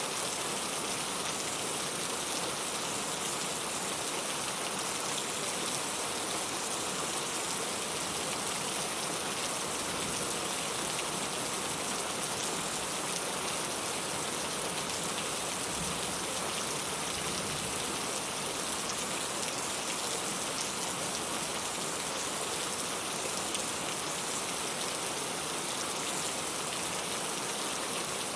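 Steady rain falling, an even hiss with the patter of drops on a surface, strongest in the highs.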